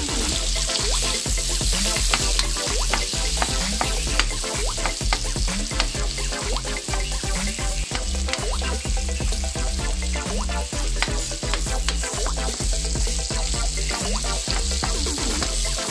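Garlic and onion sizzling in hot oil in an aluminium wok, with a metal ladle scraping and clicking against the pan as it stirs, many times throughout. Background music with a low bass line runs underneath.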